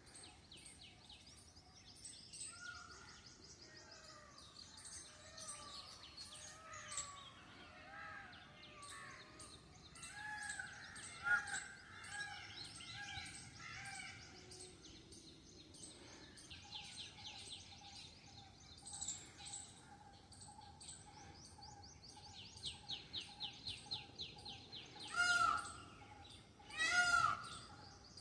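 A chorus of several birds chirping and trilling at once, with fast repeated high trills and a steady repeated note underneath. Near the end, three loud, harsh calls come about a second and a half apart.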